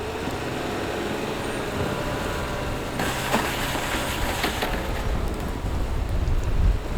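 Pickup truck running, heard from inside the cab as a steady noise, with a couple of sharp clicks around the middle and a deeper rumble building near the end as it gets ready to pull out.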